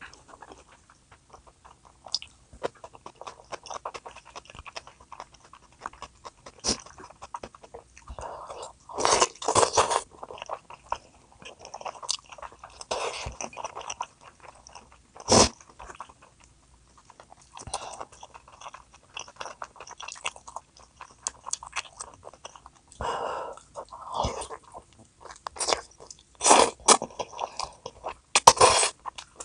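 A person biting and chewing food close to the microphone, with wet chewing clicks and several louder crunching bites.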